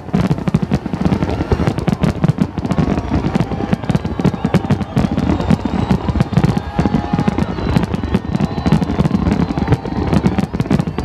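Large fireworks display: a dense, unbroken barrage of shells bursting, rapid bangs and crackling with no pause.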